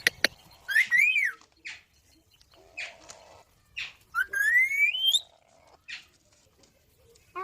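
Pet green parrot calling: a whistled call that rises and falls about a second in, and a longer call rising steadily in pitch about four seconds in, with a few short clicks and chirps between.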